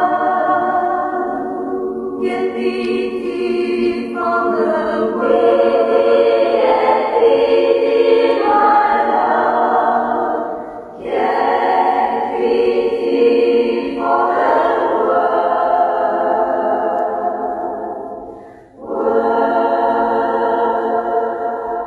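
Choir-like voices singing sustained chords that change every few seconds, with two brief breaks.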